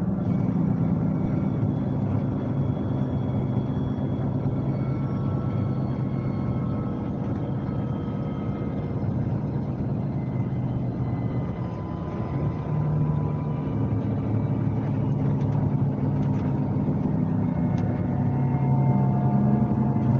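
Scania K370C coach's nine-litre five-cylinder diesel running under way, heard from on board. The engine note eases slightly and dips about halfway through, then picks up and climbs toward the end.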